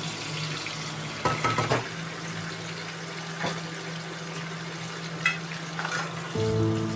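Food frying and sizzling in a pan, stirred with a spoon that clinks and scrapes against the pan, with a cluster of clatters about a second in and single knocks later.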